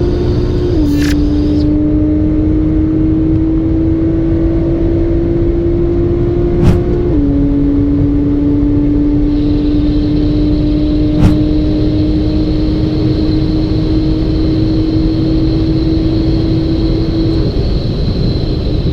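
Motorcycle engine pulling hard under heavy wind noise. Its pitch climbs slowly and drops sharply at two upshifts, about a second in and about seven seconds in. Two sharp clicks come about seven and eleven seconds in, and the engine tone fades out shortly before the end.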